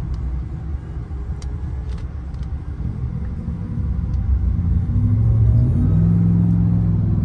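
GMC Denali truck driving, its engine and road noise making a steady low rumble; about five seconds in the engine note rises and gets louder as it accelerates.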